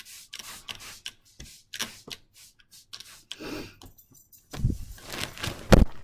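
A table being sprayed and wiped down with all-purpose cleaner: irregular clicks, rubbing and handling noises, with a few heavier knocks near the end.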